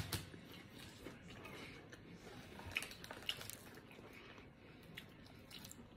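Faint close-mouthed chewing of a Whopper Melt on soft bread, with a few small mouth clicks, two of them a little louder about three seconds in.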